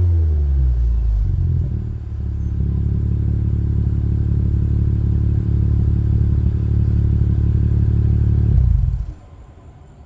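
2018 Audi S4's 3.0-litre turbocharged V6 through an MBRP catback exhaust, dropping from a rev back down to a steady, deep idle. The sound stops abruptly near the end.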